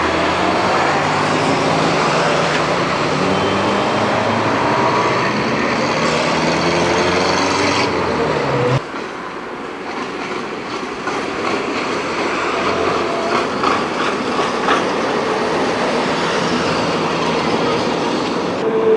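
Electric trams running over street track. For the first nine seconds there is a steady running noise with a motor whine that slides up and down. It then drops suddenly to a lighter rumble, with a few sharp clacks of wheels crossing the junction's pointwork.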